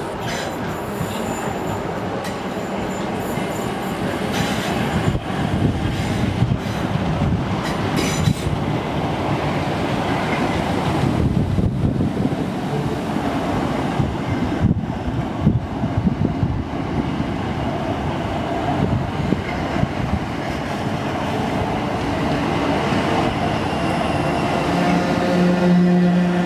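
Class 442 electric multiple unit running through the station on curved track: a continuous rumble of wheels on rail, with sharp clicks over the points and a thin high flange squeal in the first few seconds. A steady low hum comes in near the end as the coaches pass close by.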